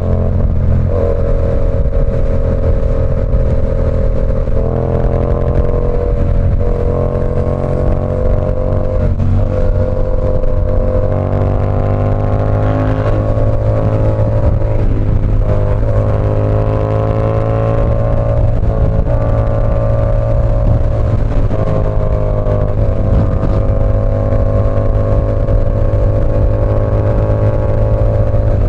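Yamaha R7's 689 cc parallel-twin running through an SC Project CR-T exhaust while riding at a fairly steady pace. The exhaust note holds mostly level, stepping up or dipping a few times.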